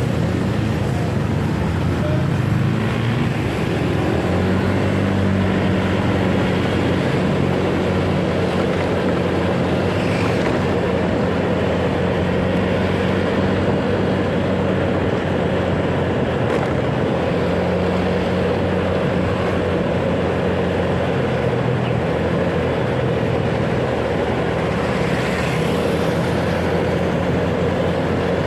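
Motorcycle engine running steadily while riding, its pitch shifting a little with speed, under steady wind and road noise.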